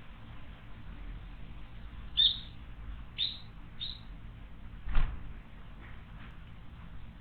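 A wild bird calling: three short, sharp calls about a second apart, followed by a single sharp knock about five seconds in.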